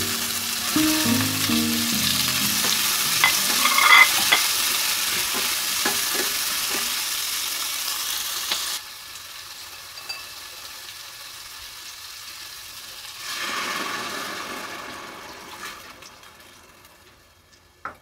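Sliced tomatoes and vegetables sizzling in hot oil in a stainless steel pan, with some stirring and a few clicks of the utensil. The sizzling cuts off abruptly about nine seconds in and returns more softly for a couple of seconds later, with a couple of clinks near the end.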